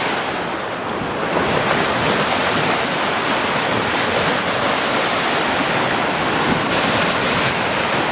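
A steady, loud rushing noise with no pitch or rhythm.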